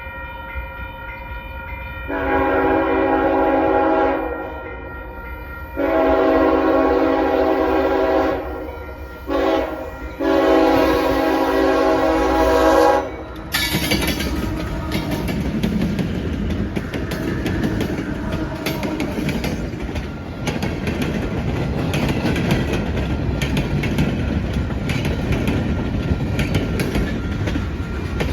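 CSX freight train's locomotive horn sounding the grade-crossing signal: two long blasts, a short one and a long one. The train then runs past with a steady rumble and the clatter of wheels on the rails.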